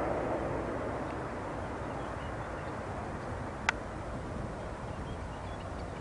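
Jet engine noise of a Boeing 787 airliner, an even rumbling rush slowly fading. One sharp click comes a little past halfway.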